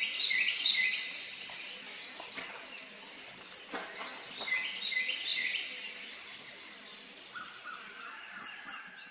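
Birds chirping in short repeated calls, with a few sharp clicks among them.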